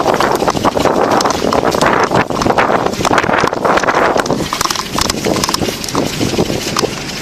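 Quick repeated footfalls and knocks picked up by a body-worn camera jostling on a moving officer, over a constant rush of noise.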